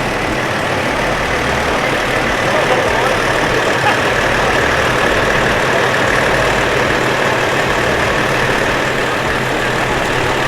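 Car engines idling in a stopped line of traffic, a steady low rumble, with people talking in the background.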